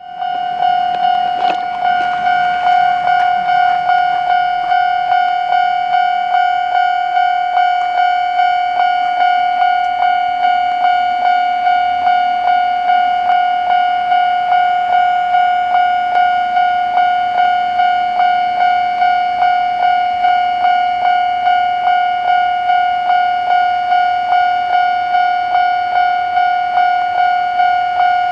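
Railway level-crossing warning bell ringing in an even, steady clang, about two strikes a second: the crossing is closed for an approaching train.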